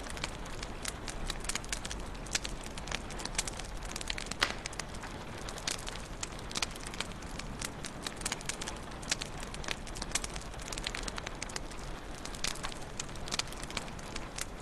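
Wood fire in a fireplace crackling, with many sharp irregular pops and snaps over a steady low hiss of burning.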